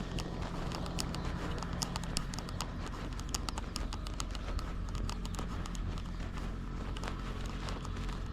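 Rapid, irregular small clicks and rustles from a GoPro strapped to a cat as the cat moves, over a steady low rumble.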